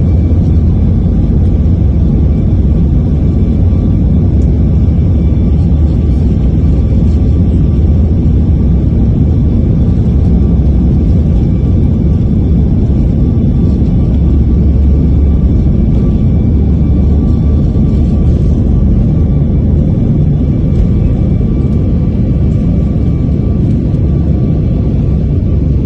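Jet airliner's engines and airflow during takeoff, a loud steady low rumble with faint steady whine tones above it, as heard inside the cabin.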